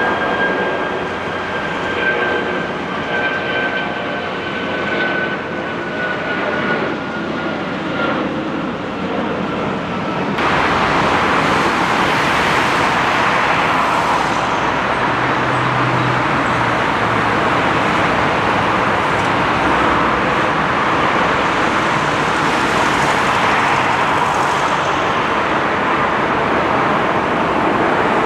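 Airbus A380 landing sounds: a jet engine whine slowly falling in pitch over steady noise, then, after an abrupt change about ten seconds in, a louder steady rushing roar.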